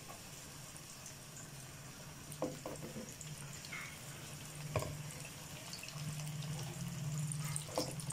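Cabbage rolls quietly sizzling in shallow oil in a frying pan, with a few soft knocks as more rolls are set down in the pan, over a low steady hum.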